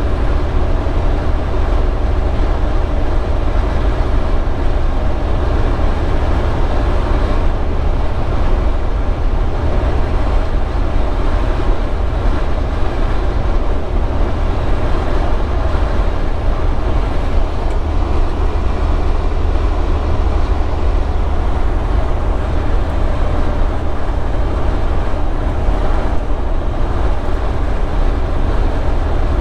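Semi-truck cab at highway speed: a steady low drone of the diesel engine with road and tyre noise.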